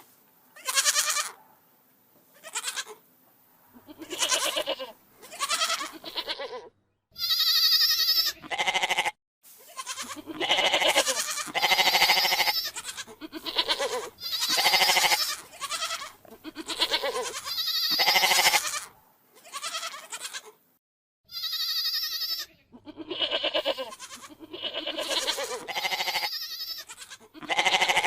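Goats bleating again and again: about fifteen separate wavering calls of varying pitch and length, some high and some lower, with a few abrupt silent gaps between them.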